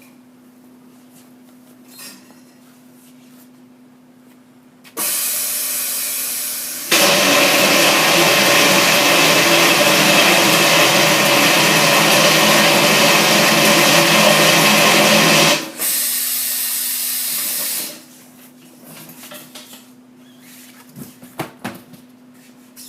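TTSR5-1 truck tire sidewall remover running under load. It starts loud about five seconds in, gets louder with a steady whine two seconds later, and stops about thirteen seconds after starting, over a low steady hum. A few knocks follow near the end.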